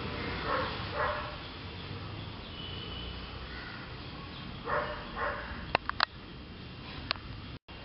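Two pairs of short, harsh animal calls, a few seconds apart, followed by three sharp clicks.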